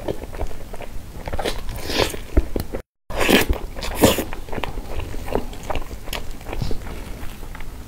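Close-miked mouth sounds of eating soft cream cake: wet chewing and lip smacks, with a brief dropout about three seconds in.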